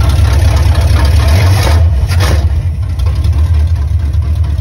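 1988 Chevrolet Caprice Brougham's carbureted engine idling loud and steady, heard up close from the open engine bay.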